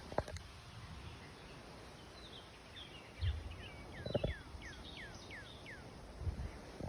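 A bird singing a run of about ten quick notes, each sliding downward, over faint outdoor hiss, with a few soft low thuds.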